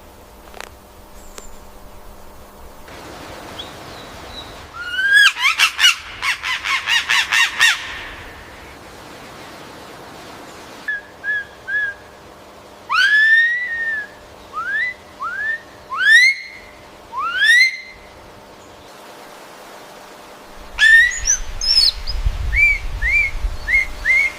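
Birds calling with loud whistled notes: a quick run of repeated notes, then several rising slurred whistles, then another run of short notes near the end.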